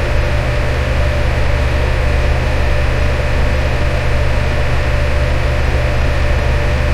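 Electric fan running steadily: a constant rushing of air with a deep hum and a faint steady whine.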